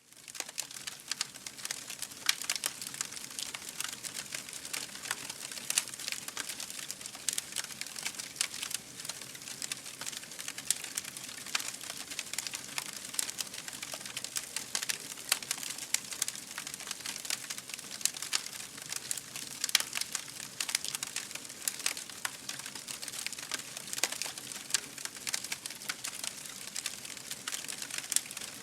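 Wood fire burning in a fireplace: steady hiss with dense, irregular crackles and sharp pops from the burning logs.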